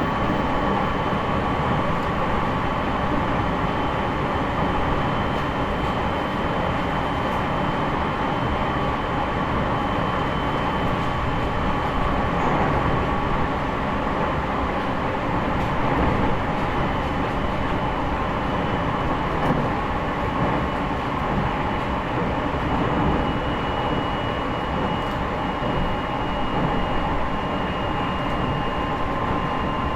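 Interior running noise of a JR East E501 series electric multiple unit, recorded in a motor car cruising between stations: steady wheel-on-rail rumble with a constant high whine that sinks slightly in pitch near the end.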